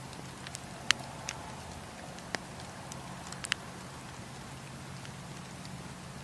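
Campfire of burning wood crackling: scattered sharp pops and snaps, the loudest about a second in and a few more over the next few seconds, over a steady low background.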